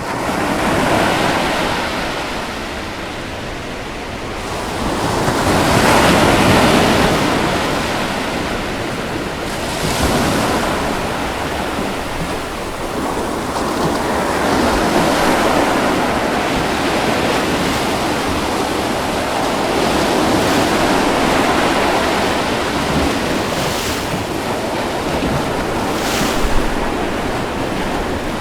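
Ocean waves breaking and washing in: continuous surf that swells and eases every few seconds, the biggest wave cresting about six seconds in.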